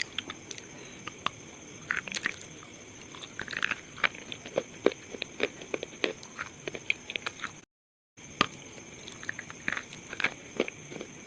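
Pieces of slate crunching and crumbling in a rapid, irregular run of sharp cracks and crackles, broken by a brief silent cut about eight seconds in. A faint steady high whine sits underneath.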